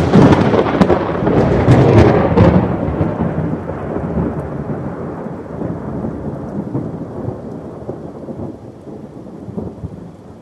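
Thunder with rain: a loud crackling clap in the first couple of seconds, then a rumble that slowly dies away.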